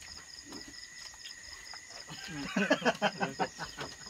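Crickets chirping steadily in the background. A little over halfway through comes a short burst of a person's voice in quick repeated pulses.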